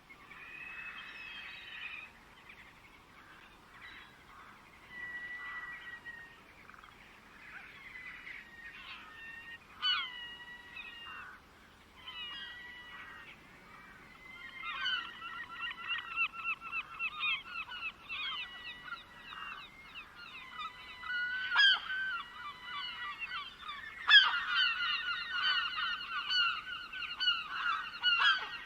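Birds calling: scattered calls at first, then from about halfway a dense chorus of quickly repeated calls that grows louder near the end.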